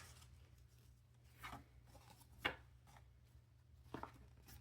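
Quiet handling of paper bills and binder envelopes: three short rustles and taps over a low steady room hum, the sharpest about halfway through.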